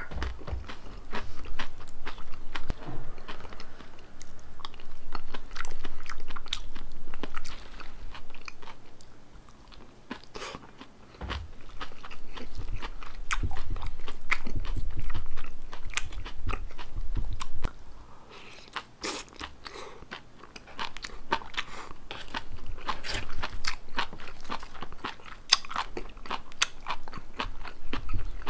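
Close-miked chewing and crunching of mouthfuls of a salmon poke bowl with brown rice, avocado and leafy greens: a long run of crisp crunches and wet chewing, with two short lulls.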